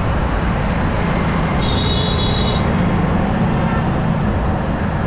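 Road and wind noise on a moving motorcycle in traffic, with a short high-pitched horn beep about a second and a half in.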